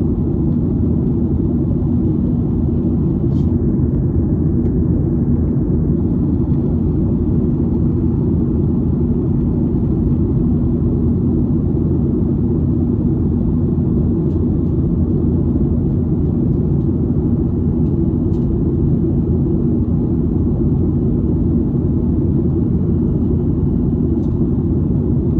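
Steady low drone of an airliner cabin in flight: engine and airflow noise with a faint steady hum, unchanging throughout, with a couple of faint ticks.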